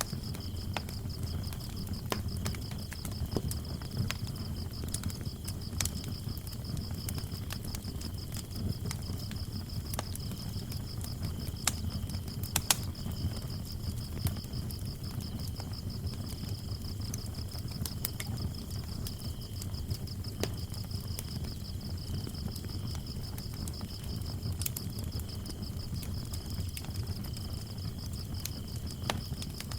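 Wood fire crackling, with scattered sharp pops over a low rumble, while crickets chirp in a steady high trill, a second fainter cricket chirping on and off.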